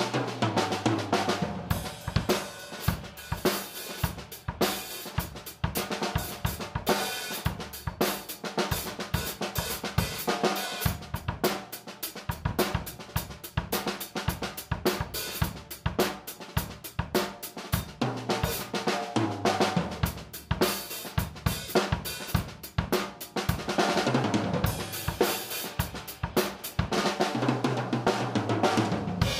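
Drum kit being played: a 1996 Pearl Export Select five-piece set, with a busy run of snare, bass drum, hi-hat and cymbal strokes, and tom fills every few seconds.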